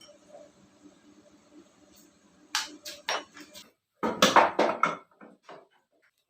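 Hard objects knocking and clinking: a handful of sharp clicks about two and a half seconds in, then a loud clatter lasting about a second, then a few lighter clicks.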